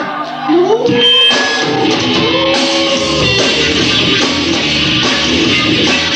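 A rock band playing live, led by electric guitar, with a sliding guitar note about half a second in. The sound fills out and brightens about two and a half seconds in.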